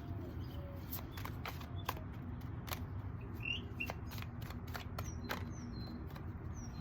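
Small birds chirping briefly a few times in the second half, over a steady low rumble. Irregular sharp clicks and taps run throughout.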